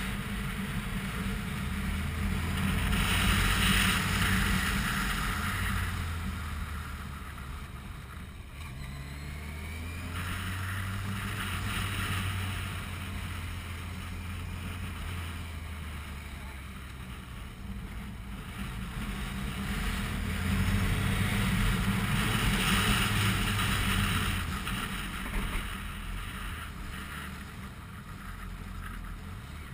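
Yamaha motorcycle engine running under way, its pitch shifting as the revs change, with wind rushing over the microphone that swells loudly twice.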